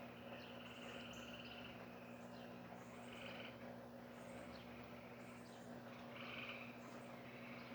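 Faint chorus of calling animals, likely insects or frogs: short, buzzy trills repeating about once a second, with fainter high chirps and a steady low hum underneath.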